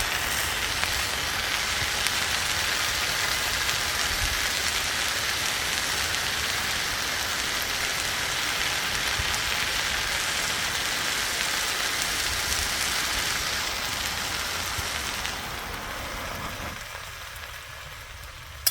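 Food sizzling in a frying pan: a steady crackling hiss that fades away over the last few seconds.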